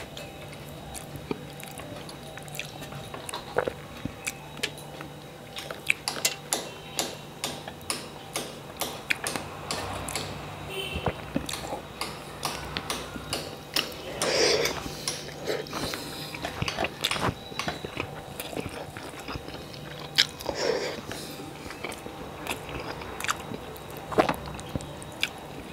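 Close-miked chewing and mouth smacking of a man eating rice and fried vegetables by hand: a steady run of short wet clicks and smacks, with a few louder bursts about 14 and 21 seconds in. A faint steady hum runs underneath.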